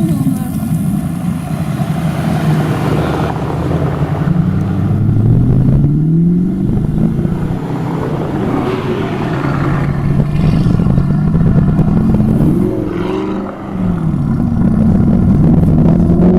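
Car engines accelerating hard, the pitch climbing and then dropping back at each gear change several times over.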